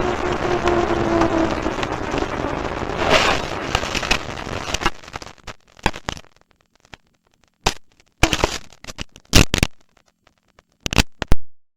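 Steady vehicle noise for about five seconds, then it drops away and a scatter of sharp cracks and knocks follows, the loudest near the end.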